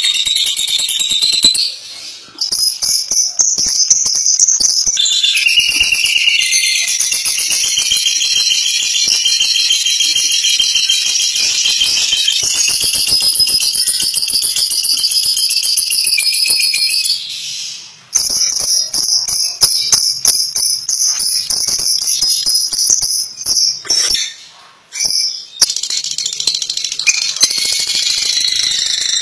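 Lovebird 'ngekek' song: a long, very fast, high-pitched chattering rattle. It breaks off briefly about 2 seconds in, again around 18 seconds and around 24 seconds, then carries on.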